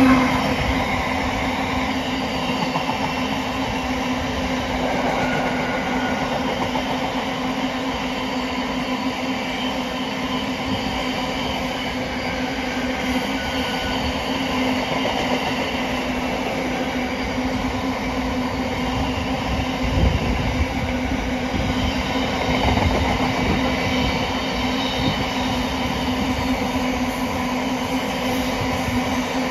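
Freightliner Class 70 diesel locomotive passing close by at the start, then a long intermodal container train rolling past with a steady rumble of wheels on the rails. There are a few knocks about two-thirds of the way in.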